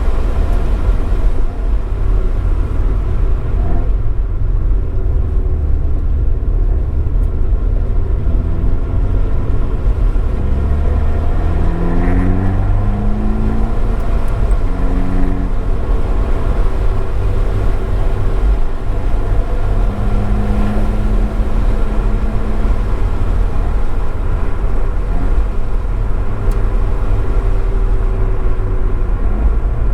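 Abarth 595 esseesse's 1.4-litre turbocharged four-cylinder running hard through an Akrapovič exhaust, picked up by a microphone in the car's trunk, with a heavy low rumble. The engine note climbs in several steps about ten to fifteen seconds in, as the car goes through gear changes.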